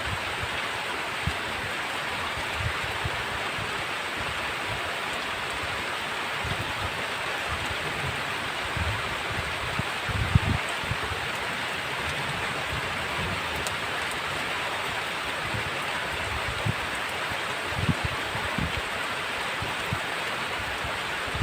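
Heavy rain falling steadily, an even hiss, with short low thumps now and then, the strongest about ten seconds in.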